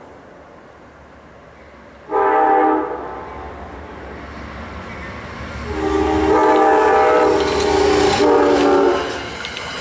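Amtrak train's locomotive air horn sounding a short blast about two seconds in, then a long blast that shifts chord near the end, the tail of a grade-crossing signal, over the rising rumble and rail noise of the approaching train.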